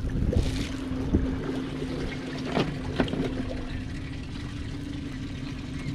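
Boat motor idling steadily, with a few sharp knocks on the boat.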